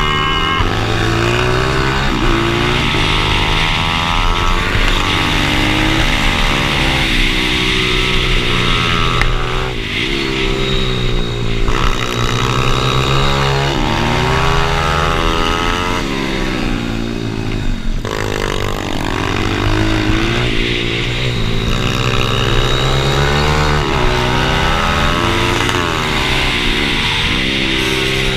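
Pit bike engine revving hard and dropping back again and again, its pitch rising on each pull and falling off as it changes gear or slows for corners.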